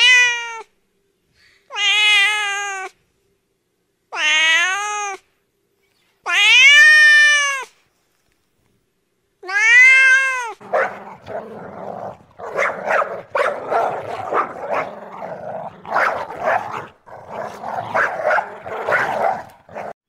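Domestic cat meowing five times, each meow drawn out and arching up then down in pitch. About ten seconds in the meows give way to a rough, irregular noise that runs to the end.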